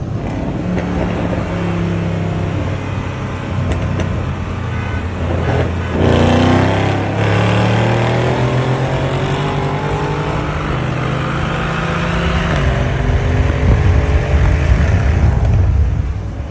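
V8 car engine under hard acceleration, its pitch climbing. It surges louder with a rising sweep about six seconds in, holds, then climbs again before easing off near the end.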